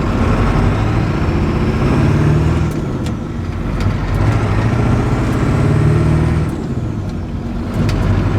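Ford 7.3 Powerstroke turbo-diesel V8 pulling hard under acceleration, running with only a downpipe for exhaust on a freshly loaded performance tune. The engine note builds, eases off about three seconds in, builds again, and drops again near the end, with a faint high whistle over it while under power.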